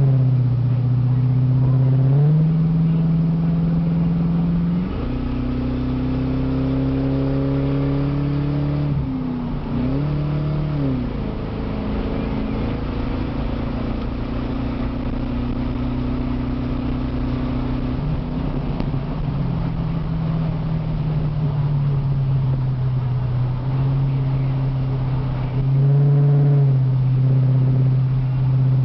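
Ford Crown Victoria Police Interceptor's 4.6-litre V8, mufflers removed but catalytic converters kept, heard from inside the cabin while driven hard. The engine note climbs and shifts in steps with gear changes and throttle. It dips as the driver eases off about ten seconds in, then holds a long steady pull and changes again near the end.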